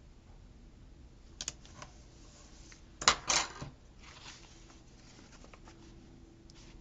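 Paper and sticker-sheet handling on a desk: a light click about a second and a half in, then a short crisp rustle around three seconds in, with faint ticks after.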